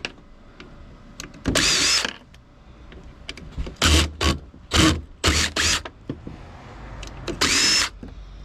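Power drill run in short bursts to back out fasteners, each spin-up with a high whine: a longer burst about a second and a half in, a quick run of short bursts in the middle, and another longer one near the end.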